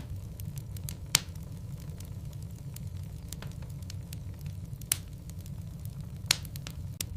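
Wood logs burning in a fireplace: a steady low rumble of the fire with frequent small crackles and three louder pops, about a second in, about five seconds in and about six seconds in.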